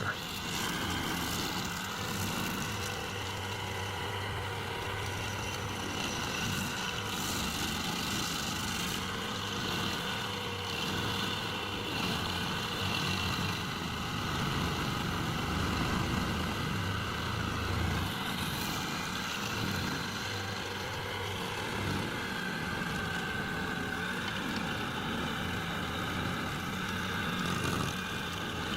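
Stump grinder running steadily, its engine and cutting wheel at a constant pace with no letup.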